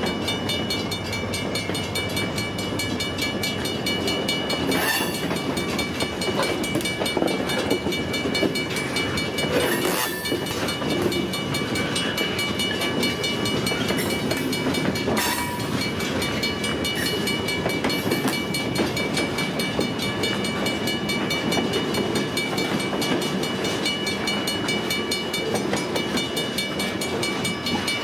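Diesel-hauled freight train running, a steady mechanical rumble with a few faint high tones held throughout, and a few sharp clicks in the first half.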